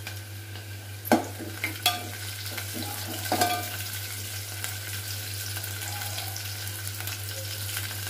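Onions, garlic and green chillies sizzling in hot oil in an aluminium pot, stirred with a steel spoon. The spoon knocks against the side of the pot three times with a short ring, about one, two and three and a half seconds in.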